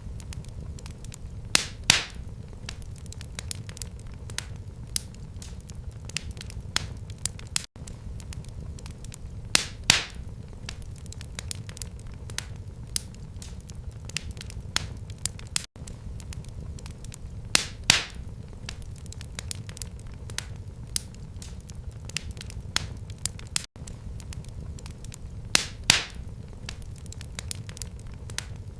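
Wood fire burning in a fireplace: steady crackling with a low rumble underneath and a louder burst of pops every eight seconds, the same pattern repeating.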